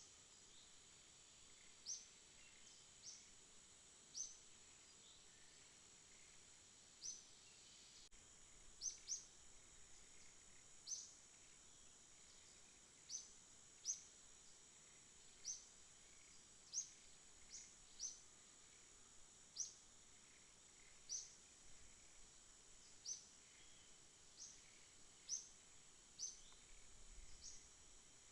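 Faint night-time insect chorus: a steady high trill, with short, sharp high chirps recurring irregularly about once a second.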